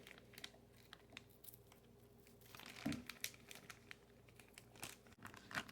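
Faint crinkling of a plastic freezer bag as chopped onions are dropped in and separated by hand, with scattered small crackles and one slightly louder rustle about three seconds in.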